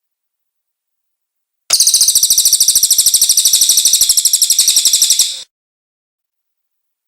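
Cililin bird song: a rapid, high-pitched trill of about a dozen notes a second, starting about two seconds in and lasting nearly four seconds.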